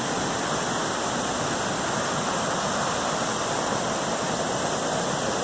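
Waterfall rushing, a steady loud roar of falling water without a break.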